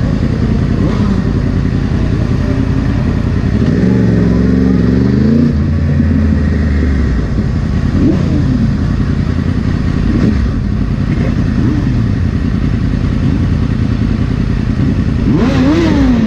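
2010 Yamaha R1's crossplane inline-four engine heard from the bike itself, running at low speed with the revs rising and falling several times as other motorcycles ride just ahead.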